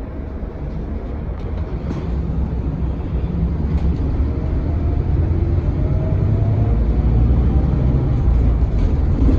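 Scania K320HB bus pulling away: a low engine rumble that grows steadily louder as it accelerates, with a faint whine slowly rising in pitch partway through.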